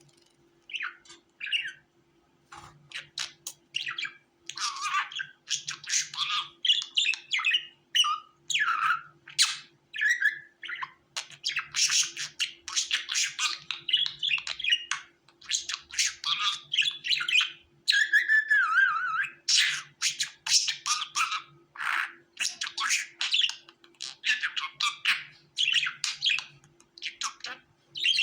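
Budgerigars chattering and warbling, a fast run of short chirps, squawks and warbled notes with barely a pause, starting about a second in. A faint steady hum runs underneath.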